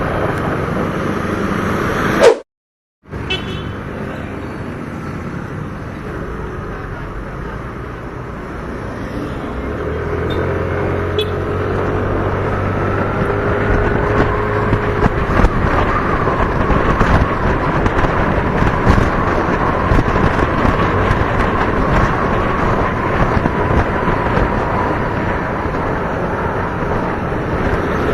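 Wind noise on the microphone and traffic noise while riding a motorcycle, with a vehicle engine's note slowly climbing in pitch through the middle. The sound cuts out completely for under a second near the start.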